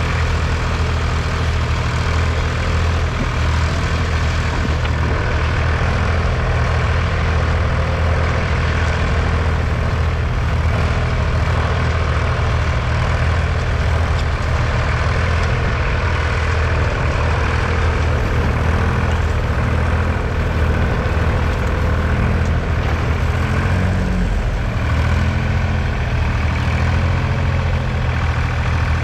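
1966 Nuffield 10/42's 2.8-litre three-cylinder BMC diesel engine running steadily, its note shifting briefly about three-quarters of the way through.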